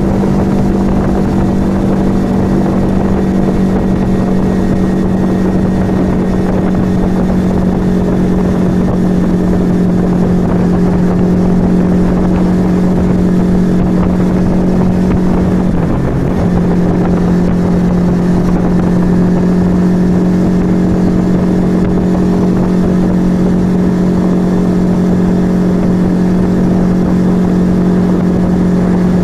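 Yamaha XV125 Virago's small air-cooled V-twin running steadily under way through an aftermarket Turbo Kit exhaust, with a brief dip in the engine note about halfway through.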